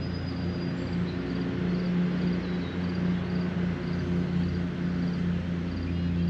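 A steady low engine drone that holds one pitch throughout, over a hiss of rain. A faint, high chirp repeats about twice a second.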